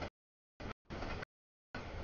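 Double-stack container freight train passing: a rough rumble of wheels and cars, chopped into short bursts of about half a second with dead silence between, as if the audio keeps dropping out.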